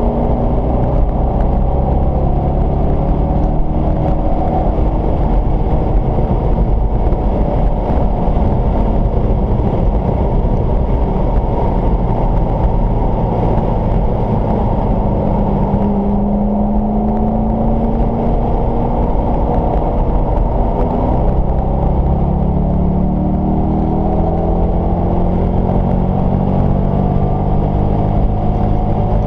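Car engine pulling hard under acceleration on a race track, its pitch climbing, dropping once about two-thirds of the way through at a gear change, then climbing again, over steady road and wind noise heard from inside the cabin.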